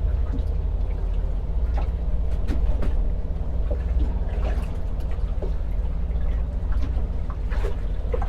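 Wind rumbling on the microphone over water sloshing against a small boat's hull, with scattered light knocks and clicks.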